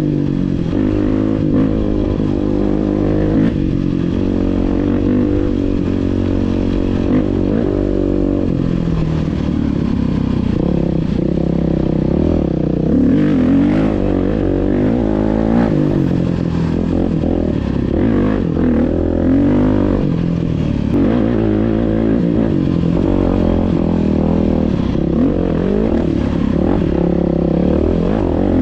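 Dirt bike engine running while being ridden, its revs rising and falling over and over as the throttle is worked.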